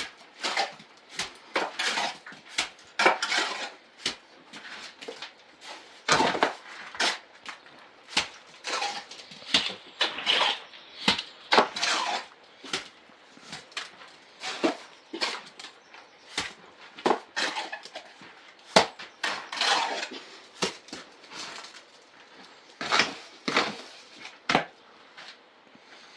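Irregular clinks and knocks of hard objects being handled and set down, about one or two a second.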